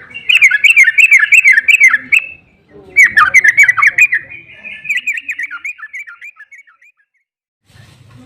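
Yellow-vented bulbul singing a long, rapid chattering song of short notes, in two loud bursts and then a third that fades away near the end.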